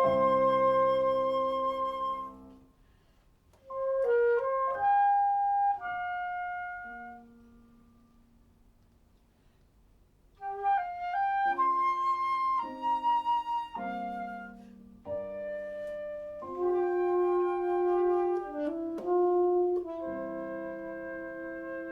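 Flute and alto saxophone playing a slow duet. A held chord fades out early, a short phrase follows, then after a near-silent pause of about two seconds both instruments come back in and settle on long held notes near the end.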